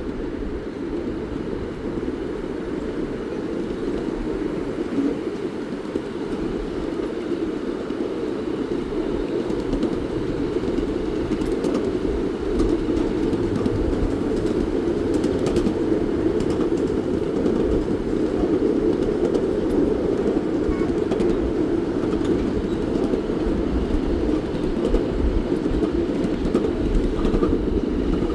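Steam train rolling along the track: a steady rumble of wheels and cars that grows a little louder through the first half.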